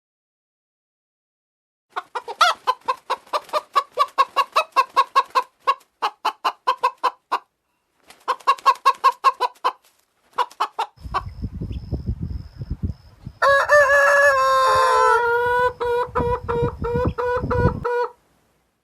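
Chickens: two runs of fast clucking, about five clucks a second, then a rooster crowing in one long call over a low rumble near the end.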